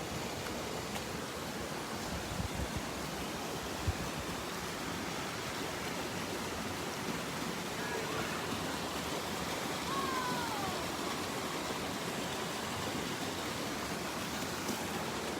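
Spring-fed mountain stream running steadily over rocks, an even wash of water noise.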